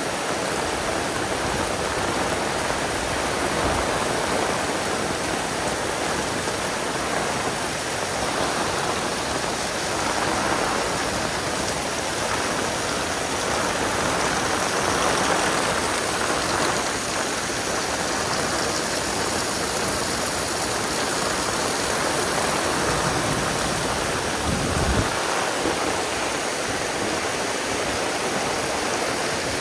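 Heavy rain pouring down steadily: a dense, even hiss of water.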